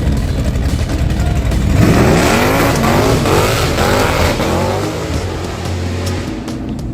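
A classic car's engine revving as it pulls away: the pitch climbs sharply about two seconds in and wavers up and down for a few seconds, then eases back to a steady low rumble.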